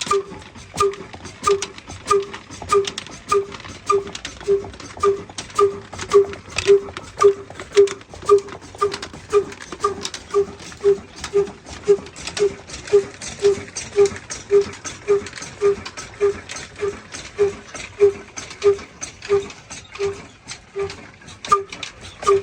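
Diesel engine running slowly and evenly, with a regular beat about twice a second.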